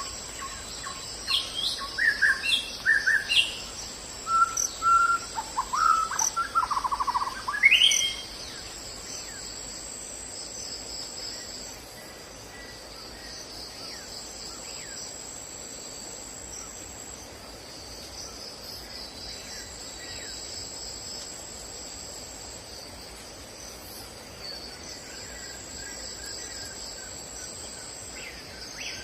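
Birds calling with a string of varied chirps and quick rising whistles for the first eight seconds or so, over a steady, high-pitched insect chorus that goes on throughout.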